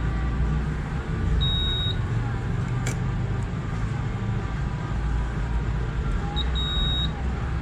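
Dodge Caliber SRT4's turbocharged 2.4-litre four-cylinder with a catless downpipe idling with a steady low rumble. Two short high electronic beeps sound, one about one and a half seconds in and one near the end, with a single click about three seconds in.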